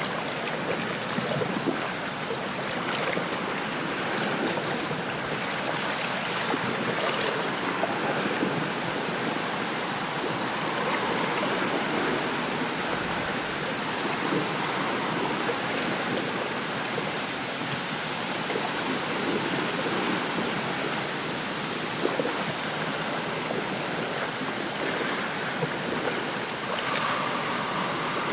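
Small lake waves lapping at the shore, with wind rustling through reeds: a steady wash of water and wind noise with small irregular splashes.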